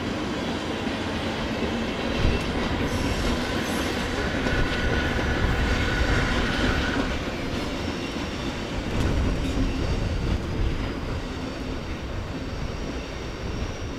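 NS electric passenger trains rolling past on the rails: a steady rumble of wheels on track with clicking over the rail joints, a brief knock about two seconds in, and a thin high wheel squeal for a couple of seconds in the middle.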